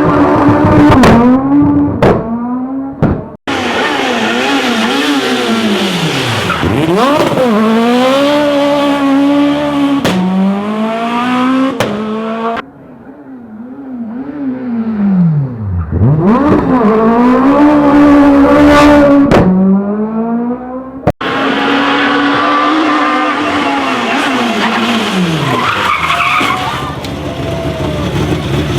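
Rally car engines revving hard, climbing in pitch through the gears, then dropping steeply as the cars brake and downshift for corners before revving up again. The sound cuts abruptly from one pass to another a few times.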